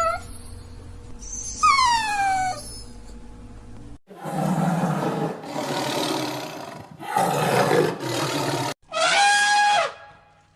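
A run of different wild animal calls: two descending whining howls, then a few rough, growling roars, then a loud, held call with a steady pitch that drops away at the end.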